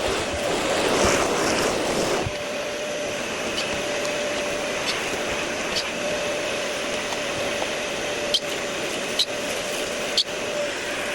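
Steady mechanical hum, like a fan or air conditioner, with a faint steady tone in it, louder and noisier for the first two seconds. Near the end come three or four short, sharp high sounds.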